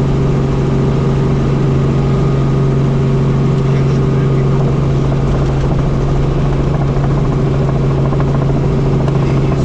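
Helicopter's engine and rotors running with a loud, steady drone and a strong low hum that does not change.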